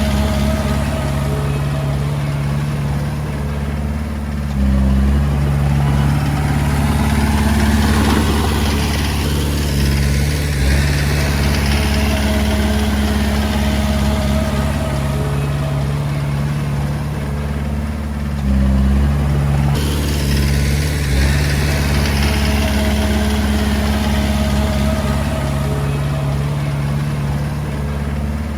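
Komatsu D20A bulldozer's diesel engine running steadily while working, with a broad mechanical noise over its low drone. It steps up in level about five seconds in and again about eighteen seconds in, as the engine takes on more load.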